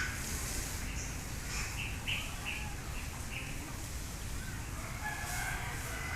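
Birds calling: a run of short, high calls with a faint arching call in the middle and a few more near the end, over a steady low outdoor rumble.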